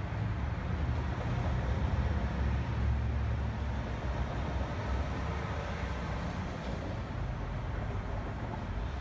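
Train at a station: a steady low rumble with a faint whine above it.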